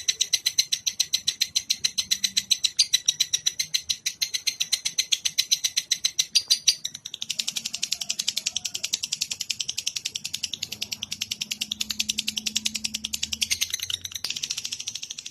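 Songbird calling in a fast, even series of high notes, about five a second. About halfway through it gives way to a denser, buzzier run of notes.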